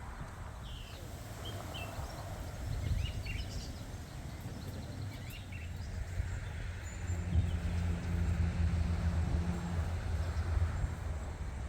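Garden birds chirp in short calls during the first few seconds over a low outdoor rumble. About seven seconds in, a steady low engine hum comes up and holds for about three seconds, then fades.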